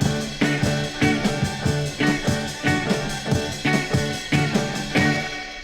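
1960s garage rock band playing the song's instrumental ending, with guitar over a steady drum beat, fading out.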